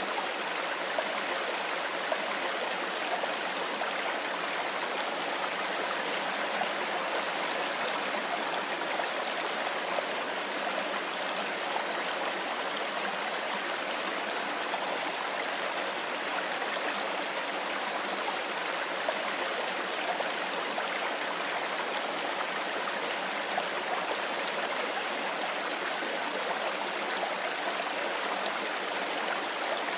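Mountain river flowing over stones, a steady, even rush of water.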